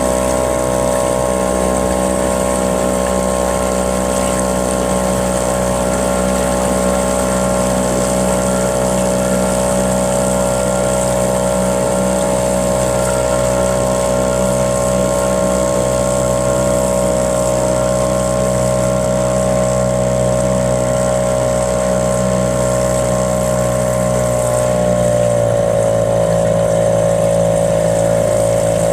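Small boat motor running steadily under way, its pitch dropping a little about 25 seconds in as it slows.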